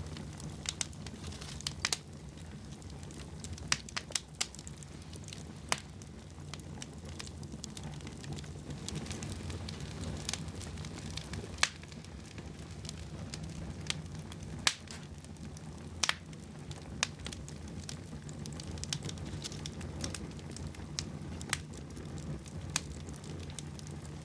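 Wood fire burning in a fireplace: a steady low rumble with sharp crackles and pops at irregular moments, about one every second or two.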